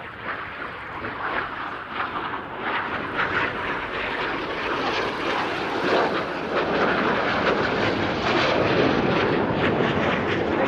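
BAE Hawk T1 jet trainers flying past, their jet engines a rushing noise that grows louder over the first several seconds and then stays loud.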